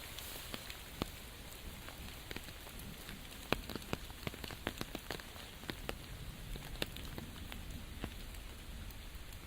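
Rain falling steadily in a forest, a constant hiss with scattered close drops ticking sharply on leaves and surfaces, a few louder than the rest.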